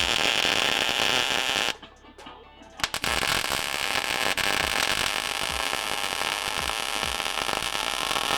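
Welder laying beads to join a steel sensor bung to an exhaust-style steel pipe, giving a steady crackle. The arc stops for about a second near the two-second mark, then runs again to the end. Background music with a low beat plays underneath.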